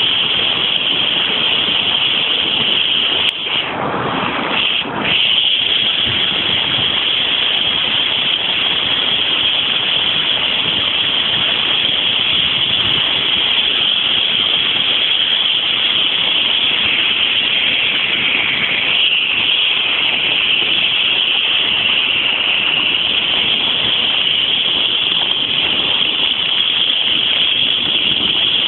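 Steady, loud rushing of floodwater, a hiss-like noise that dips briefly about four seconds in.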